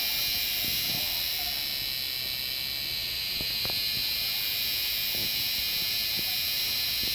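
Robust cicadas (참매미, Hyalessa fuscata) singing: a steady, shrill, high-pitched drone that holds without break, easing slightly about two to three seconds in.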